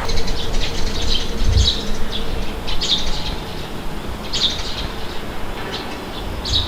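Birds chirping in short, scattered calls, half a dozen or so, over a steady low rumble of wind.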